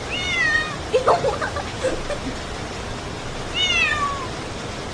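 A pet cat meowing twice, each meow short and falling in pitch, asking for food. Steady rain hisses behind it.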